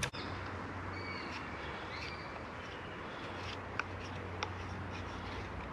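Woodland ambience: a small bird gives a few short chirps about one and two seconds in, over a steady background hiss, with a couple of faint clicks near the end.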